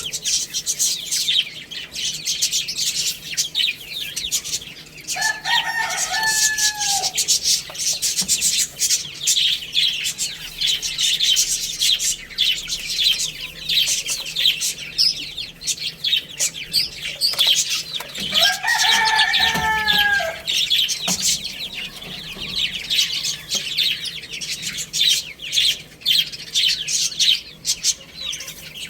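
A flock of chicks peeping nonstop in quick, high chirps. Twice, about two seconds each, an adult chicken gives a longer, lower call over them, most likely a rooster crowing.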